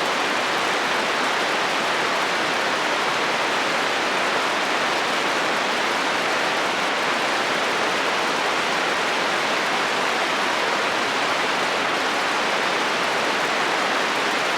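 Heavy rain falling steadily on a metal roof: a dense, even hiss of drops with no breaks.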